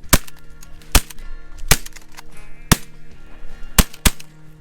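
Shotgun shots, six sharp blasts at uneven intervals.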